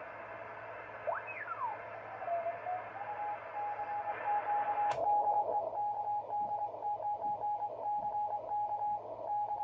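Drake 2-B tube receiver's speaker: band hiss as the tuning sweeps a whistling tone up and down in pitch, then a strong Morse code station calling CQ as a steady-pitched keyed tone. About five seconds in a click and the hiss turns narrower and duller, the receiver switched to its narrow selectivity position.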